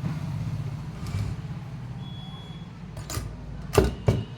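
Three sharp plastic clicks near the end as the rice cooker's plug and switch are put into a series test board. A steady low engine-like hum runs under them.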